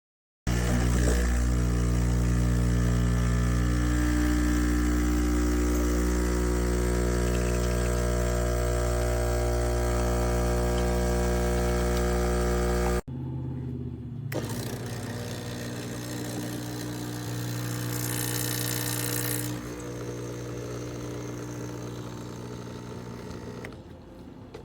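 De'Longhi Stilosa espresso machine's vibration pump running with a loud, steady buzzing hum, which stops abruptly partway through. A second, quieter run of the machine follows, with a brief hiss in the middle, then fades out near the end.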